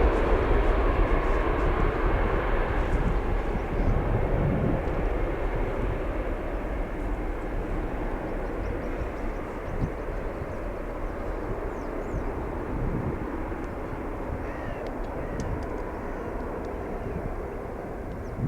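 Engine noise of a departing Airbus A340-300, a steady jet rumble from its four CFM56 turbofans that slowly fades as the aircraft moves away. Faint bird chirps come through near the end.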